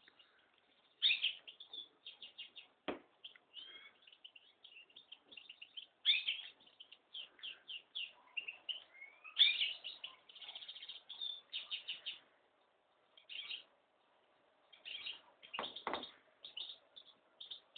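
Small pet songbird chirping and twittering in quick runs of short, high calls, with a pause near the end. A few brief soft knocks are heard, one about three seconds in and a couple near the end.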